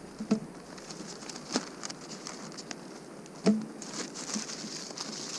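Rolls of wrapping paper and craft paper being rummaged through: light rustling with a few sharp knocks, the loudest about three and a half seconds in.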